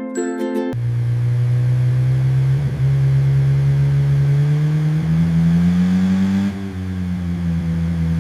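A cartoon car engine running steadily, its hum slowly rising in pitch and easing down slightly near the end. A short bit of music sounds in the first moment.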